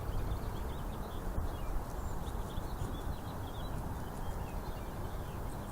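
Small birds chirping: many short, quick calls overlapping, over a steady low background rumble.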